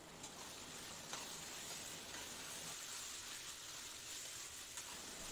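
Faint sizzling of sliced onions, whole garlic cloves and masala paste frying in oil in a stainless-steel kadhai as they are stirred with a steel spatula, with a couple of light scrapes.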